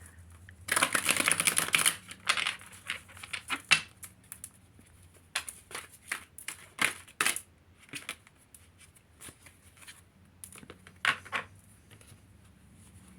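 Tarot cards being shuffled and handled: a fast run of riffling clicks about a second in, then scattered snaps and taps of cards.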